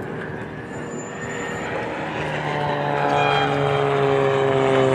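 Propeller-driven Rebel 300 aerobatic plane flying its display: a steady engine and propeller drone that grows louder from about two seconds in, its pitch sinking slightly.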